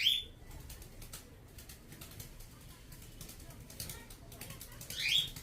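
Baby cockatiel giving two short calls that rise in pitch, one at the start and one near the end, with faint clicking in between.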